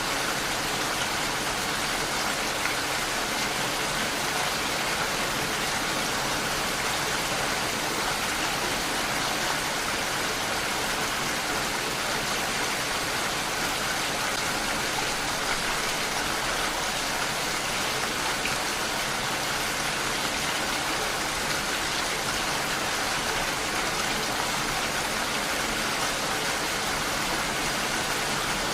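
Steady rain falling, an even hiss with no change in intensity.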